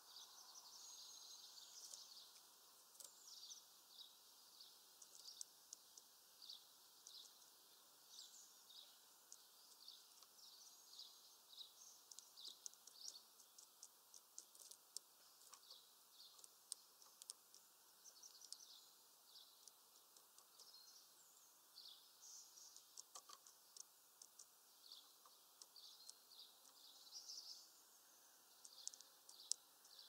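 Faint high chirps of small birds, short calls coming several times a second.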